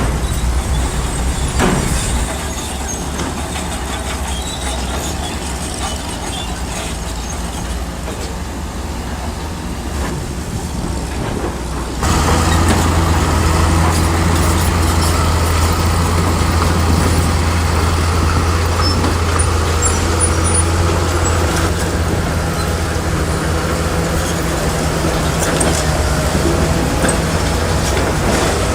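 Heavy construction machinery's diesel engine running steadily, with a low hum. It gets abruptly louder and deeper about twelve seconds in, and a couple of sharp knocks sound near the start.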